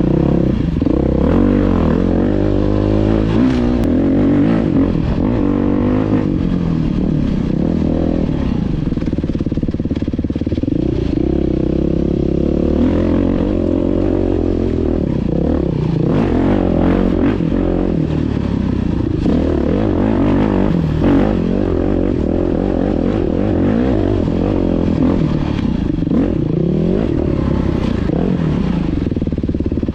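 Dirt bike engine revving up and down as it is ridden over trail terrain, with knocks and rattles from the bike over rough ground.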